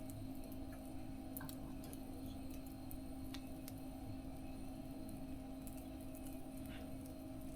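Wood fire crackling in a small mesh fire stove: irregular sharp pops and ticks over a steady low hum.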